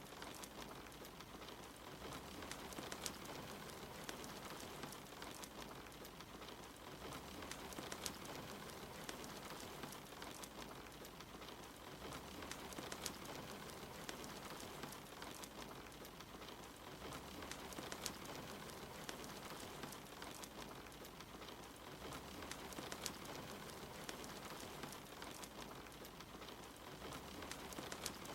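Steady rain with the occasional sharp crackle and pop of a wood fire.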